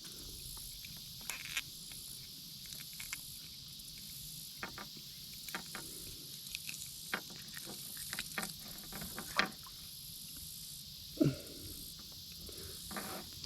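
Steady high-pitched chorus of insects, with scattered sharp clicks and taps and one short falling sound about eleven seconds in.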